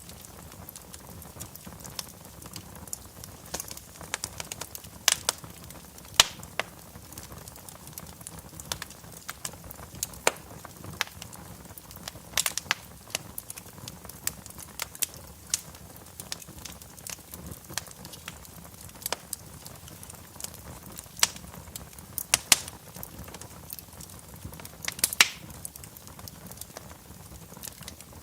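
Wood fire crackling in a fireplace: irregular sharp pops and snaps over a low steady hiss, a few of them noticeably louder.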